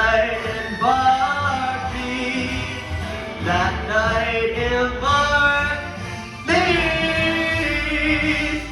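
A solo voice singing long, held notes with musical accompaniment, ending on one long sustained note.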